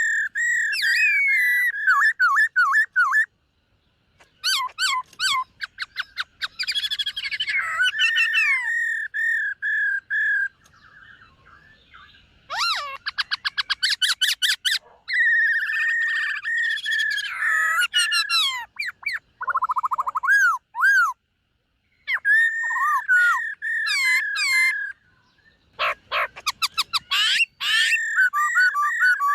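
Black-throated laughingthrush singing loud, varied phrases: runs of rapid repeated notes and warbled whistles, separated by short pauses.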